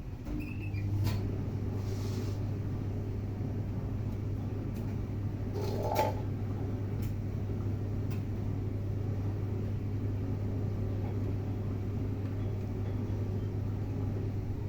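Steady low machine hum, with a few light clicks and a brief higher-pitched sound about six seconds in.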